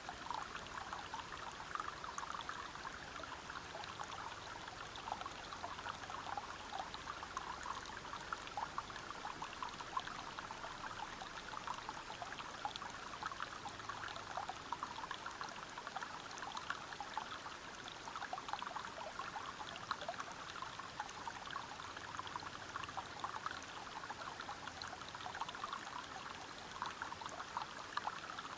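Running water of a forest stream splashing and gurgling over rocks, a steady, unbroken flow with a dense patter of small splashes.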